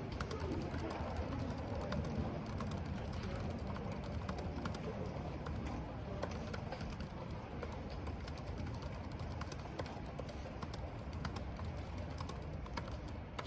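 Typing on a computer keyboard: quick, irregular key clicks over a steady low rush of wind.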